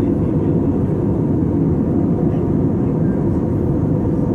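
Steady, loud rumble of an Airbus A320's engines and rushing air, heard inside the passenger cabin.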